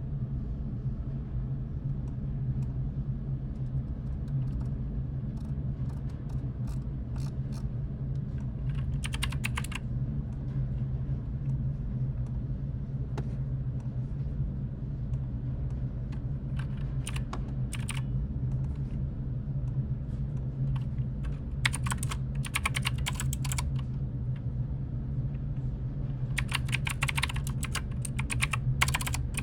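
Computer keyboard typing in short bursts of rapid key clicks with pauses between them, over a steady low hum.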